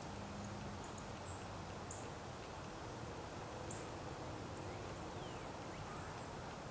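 Faint, short, high-pitched chirps of small birds, coming every second or so, over a steady low background rumble.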